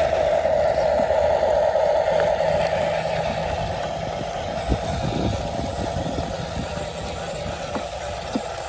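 Huina 1573 remote-control dump truck running with a steady buzzing motor, getting a little quieter towards the end, with a few faint clicks.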